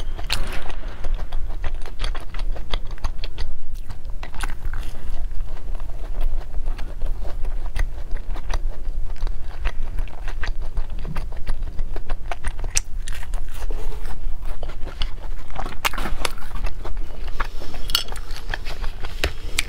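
Close-miked chewing of a crisp pumpkin tart pastry, with many small irregular crunches of the crust between the teeth.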